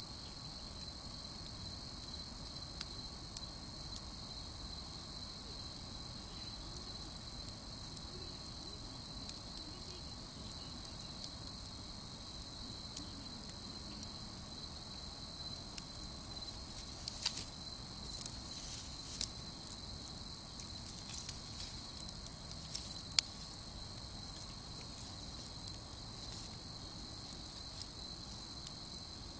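Crickets chirping in a steady, high, continuous trill, with a few sharp crackles from a wood campfire in the second half. The loudest crackle comes about 23 seconds in.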